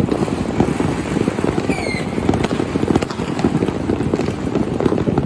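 Fireworks display heard from a distance: a dense, steady run of popping and crackling over the noise of the city, with a brief falling whistling tone about two seconds in.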